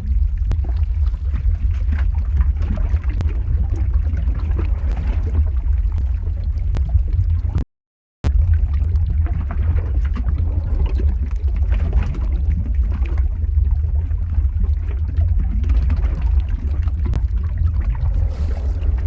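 Lava flow ambience sound effect: a steady deep rumble under an irregular crackling, bubbling texture, with a few sharp clicks. The sound drops out completely for about half a second around the middle.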